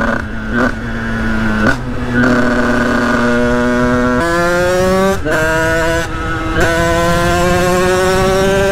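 Sherco 50cc supermoto's two-stroke single-cylinder engine under way, holding a steady high note for the first few seconds with a few brief dips. After that it pulls with its pitch climbing slowly, broken twice by short dips.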